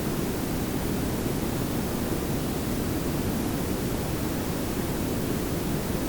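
Synthetic pink noise and brown noise layered together: a steady, even hiss over a deep low rumble, unchanging throughout.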